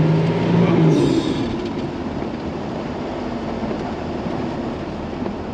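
Truck driving in deep snow: the engine holds a steady note that falls away about a second in as the throttle comes off, leaving a steady rushing of tires and snow while the truck keeps moving.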